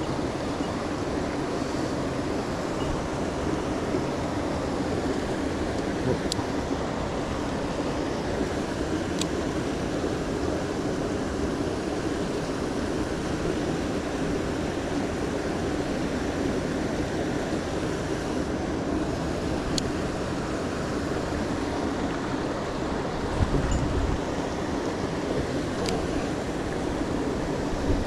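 Steady rush of a mountain stream's flowing water, with a few faint sharp ticks scattered through it.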